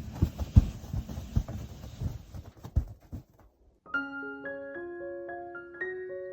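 Irregular dull thumps and crunching for about three seconds, then a short gap, and soft piano background music starts about four seconds in.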